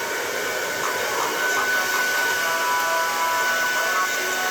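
Hand-held hair dryer blowing steadily, an even rush of air with a constant high whine.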